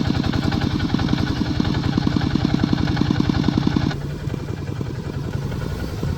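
Tractor engine running with a fast, even chugging beat. About four seconds in, the sound suddenly turns quieter and duller.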